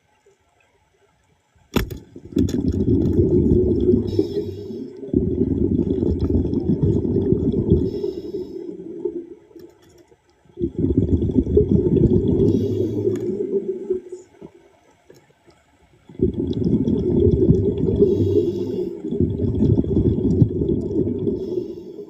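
Underwater: a diver's exhaled air bubbling out of the breathing regulator in four long surges with short quiet gaps between them, one surge for each breath.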